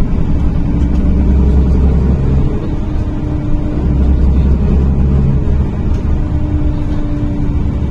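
A NefAZ-5299 city bus's engine and drivetrain droning inside the cabin as the bus drives between stops. The low engine note eases off briefly about two and a half seconds in and again about five and a half seconds in, then picks up again.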